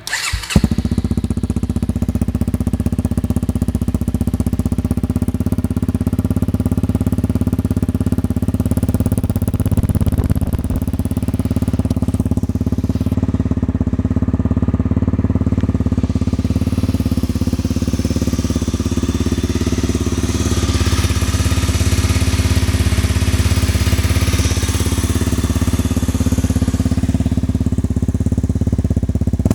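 Honda CRF250L's single-cylinder four-stroke engine idling steadily through its exhaust pipe. The sound comes in suddenly right at the start.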